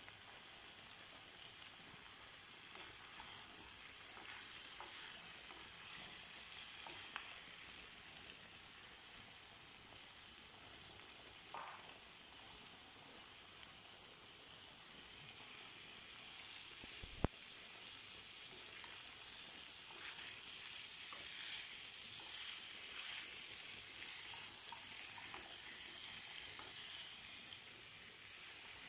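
Chicken thighs, potatoes and carrots frying in a metal pan: a steady sizzle with small crackles and occasional stirring with a wooden spoon. One sharp knock about seventeen seconds in.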